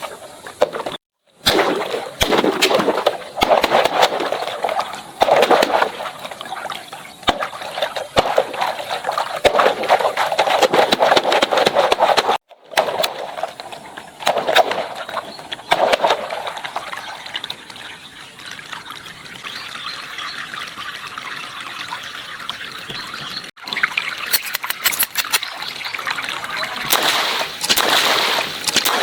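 Water gushing and splashing, rising and falling in strength, with abrupt cuts to silence about a second in, near the middle and again later.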